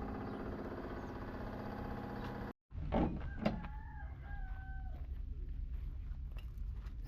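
A steady machine hum, then after a cut a thump and a click, and a rooster crowing once in a held, stepped call.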